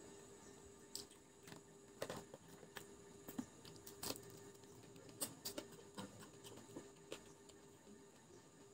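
Faint chewing of fried chicken pakora: soft irregular crunches and wet mouth clicks at uneven intervals, over a low steady electrical hum.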